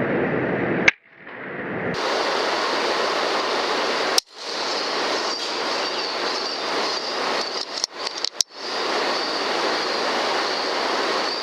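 Sharp cracks of an FX Impact .177 PCP air rifle firing, about three times, each followed by a brief dip in the sound. A steady rushing background noise with a faint high whine runs behind them.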